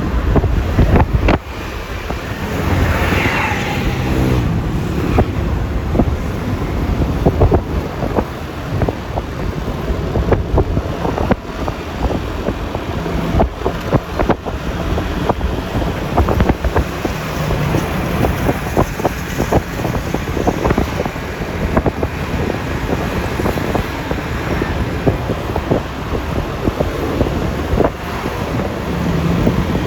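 Road noise from riding a Yamaha Lexi LX 155 scooter: wind buffeting the phone microphone over the scooter's running engine and tyre noise, with frequent short knocks. About three seconds in, a brief pitched sound rises and falls.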